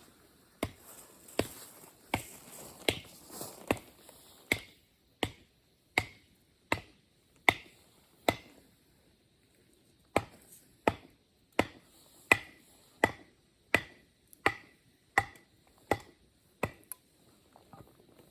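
Steady chopping strikes, about one every 0.7 seconds, each a sharp knock with a short ring. The strikes pause for about two seconds midway, then resume and fade near the end.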